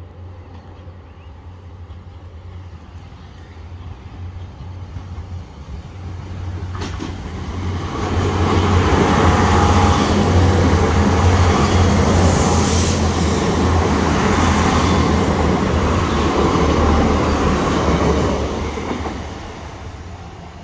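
Northern Ireland Railways diesel multiple unit passing close by over a level crossing. It grows louder over several seconds into a loud steady rumble of wheels on rails and underfloor diesel engines lasting about ten seconds, then fades as it moves away.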